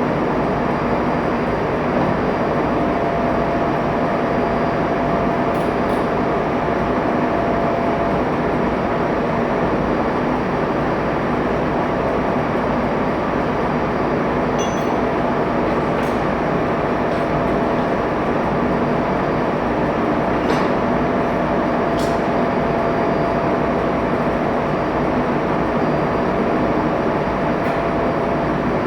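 Steady machinery noise of a ship's engine room, with a faint steady hum in it and a few light clicks.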